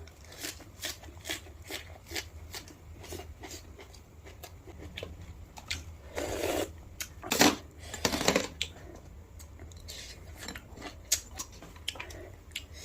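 Close-up eating sounds: a run of sharp crisp clicks and crunches, two or three a second, with a few louder crunching bursts a little past the middle.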